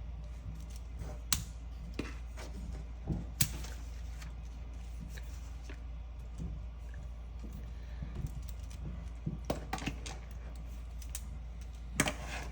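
Plastic Lego bricks clicking and snapping together as pieces are pressed into place, with scattered light taps and a few sharper snaps, over a steady low hum.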